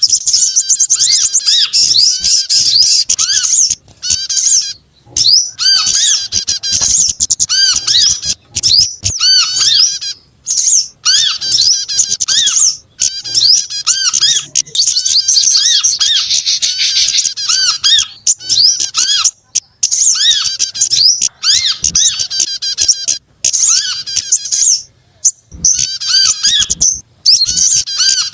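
Bird-lure recording of small songbirds calling together: dense, rapid high chirps and twitters over a repeated short rising-and-falling note, broken by brief gaps.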